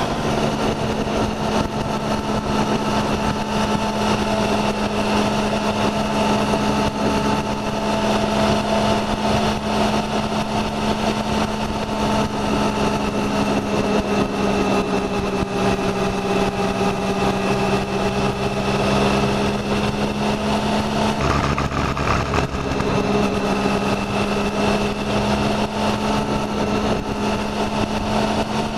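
Motorcycle engine heard from a camera on the bike's fairing, running steadily at cruising revs over rushing wind and road noise. Its pitch drifts slightly, and about two-thirds of the way through the note briefly breaks and changes before settling again.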